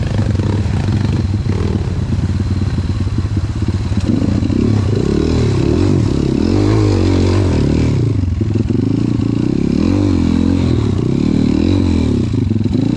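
Off-road trail motorcycle engine running hard, steady at first and then revving up and down over and over from about four seconds in, as the throttle is worked on rough ground.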